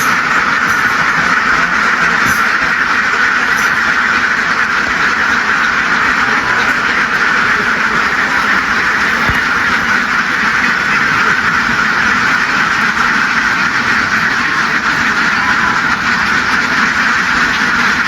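A large crowded flock of ducks quacking all at once, a dense continuous din that stays loud and steady throughout.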